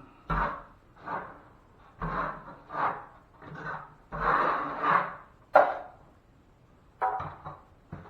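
Metal drywall knife scraping and rubbing through joint compound in repeated short strokes, about one a second, with one longer stroke and a sharp clack a little past halfway.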